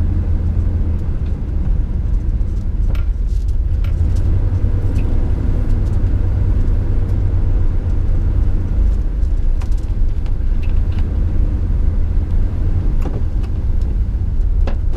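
Camper van driving, heard from inside the cab: a steady low rumble of engine and road noise, with a few faint clicks.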